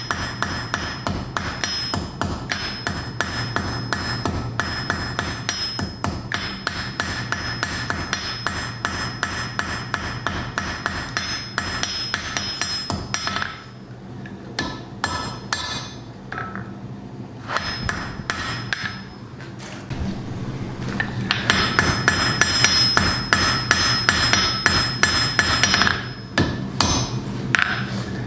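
Hand hammer striking a flat iron bar on an anvil in quick, steady blows, about three to four a second, each with a ringing anvil tone, spreading out the metal of the pendant's head. About halfway through the blows thin out and go quieter for several seconds, then come back faster and louder.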